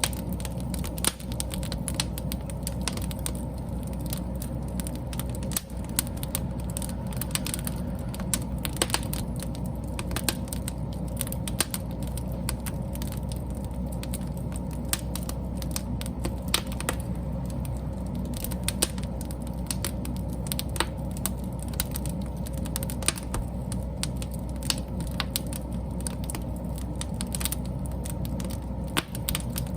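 Wood fire burning: a steady low rumble of flames with frequent sharp crackles and pops of burning wood, irregularly spaced.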